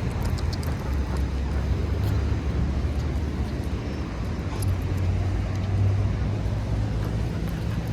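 Low, steady rumble of road traffic, swelling about five seconds in as a vehicle passes.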